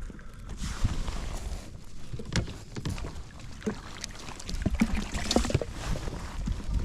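Handling sounds aboard a kayak on the water: scattered small knocks and clicks against the hull and gear over a low rumble of water and wind.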